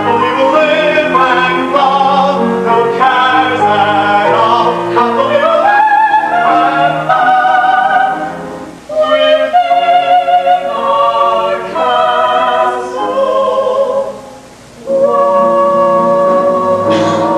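Musical-theatre singing with accompaniment: changing sung notes with vibrato, dipping briefly twice, then a long held note near the end.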